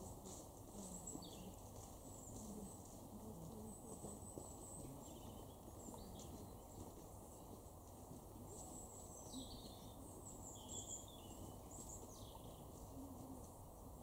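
Faint outdoor background with thin, high-pitched calls of small birds, short notes coming every few seconds.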